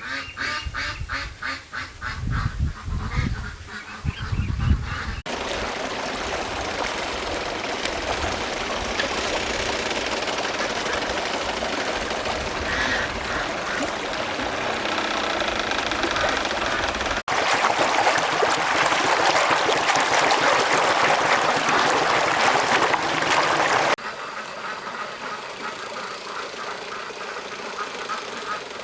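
Ducks quacking in quick repeated calls at the start and again near the end. A long stretch of steady, hiss-like noise lies between, loudest in its second half.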